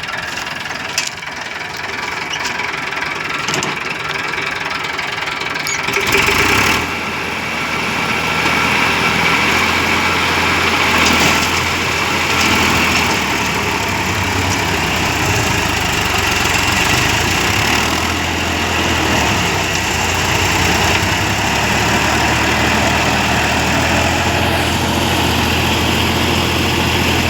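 A 2WD tractor's diesel engine running steadily while it drives a Shaktiman Dhanmitram rotary implement. About six seconds in there is a brief loud burst, and then the engine settles into a deeper, louder drone, the sound of it taking load.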